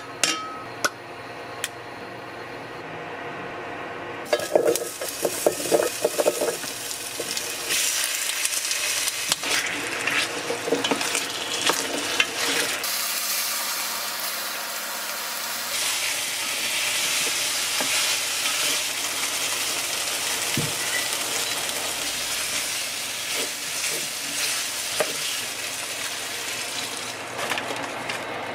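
Food frying and sizzling in a hot pan while a utensil stirs it, knocking and scraping against the pan. The sizzle starts about four seconds in.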